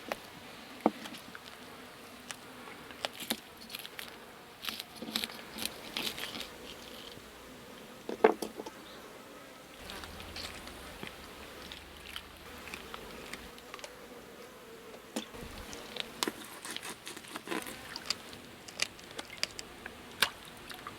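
Scattered light clicks and taps over a faint steady background, the loudest a knock about eight seconds in.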